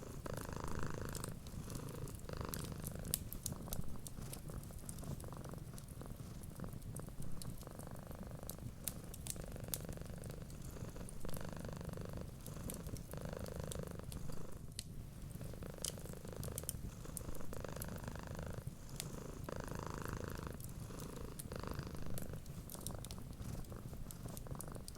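Cat purring steadily, swelling and easing with each breath about once a second. Scattered sharp crackles of a wood fire run through it.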